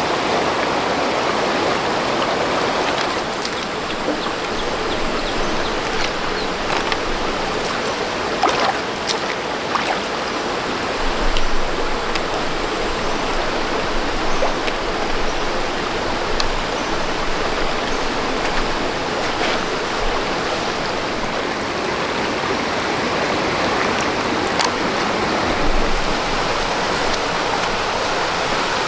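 Running water: a steady rush with occasional short clicks and splashes.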